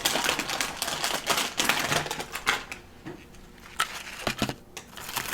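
Crinkling and crackling of a seaweed strips package being handled and opened: a dense run of small clicks for the first couple of seconds, then a quieter stretch with a few scattered clicks.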